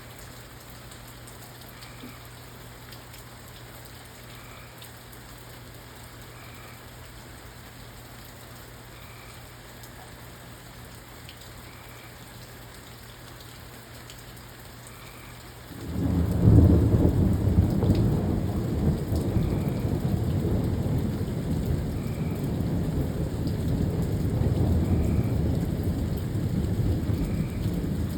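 Steady rain, then about halfway through a loud, low rumble of thunder breaks in suddenly and keeps rolling.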